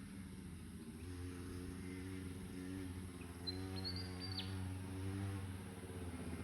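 Dirt bike engine buzzing steadily at low, even revs.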